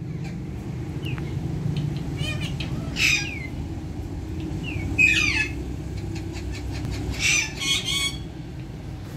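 Parrots squawking: a quick run of harsh calls about two seconds in, single squawks around three and five seconds, and a close cluster of calls near the end, over a steady low hum.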